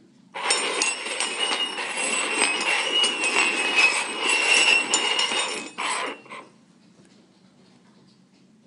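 Stainless steel cups slid and shuffled over a wooden tabletop: a continuous metallic scraping with clinks and a ringing metal tone, stopping after about six seconds.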